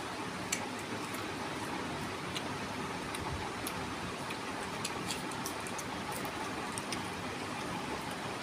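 A person chewing a mouthful of rice and curry eaten by hand, with scattered small wet clicks and smacks of the mouth, over a steady background hiss.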